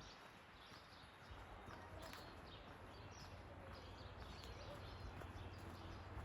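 Faint forest birdsong: many short chirps and whistles from several birds over a steady low hum.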